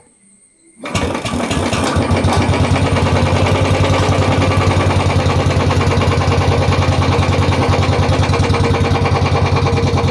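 Royal Enfield Bullet 350's single-cylinder engine starting about a second in and settling into a steady idle with an even, pulsing beat, run after the new air filter has been fitted.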